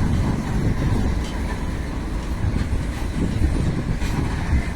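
Loaded BOBRNHSN coal hopper wagons of a goods train rolling past: a steady low rumble of wheels on rail, with a few faint clicks.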